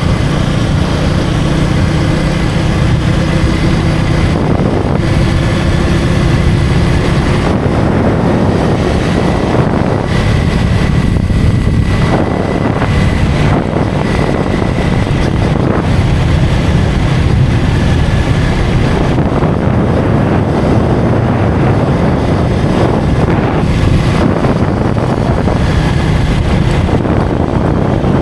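KTM Duke 250 motorcycle's single-cylinder engine running at road speed, mostly buried under heavy wind noise on the microphone; the engine note is clearest in the first few seconds.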